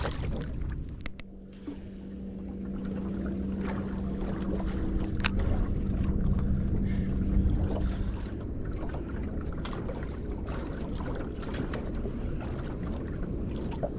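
Low rumble of a boat motor on the water, with a steady hum that swells over several seconds and then fades about halfway through, and scattered small clicks.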